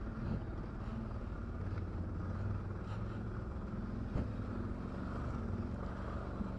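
ATV's V-twin engine running steadily at low trail speed. One sharp click about four seconds in.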